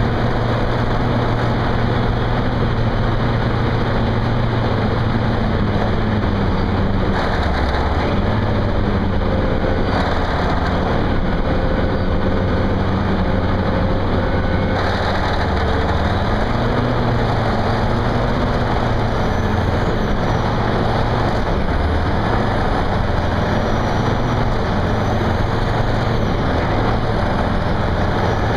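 Heavy-equipment diesel engine running steadily, its low hum shifting a little in pitch now and then.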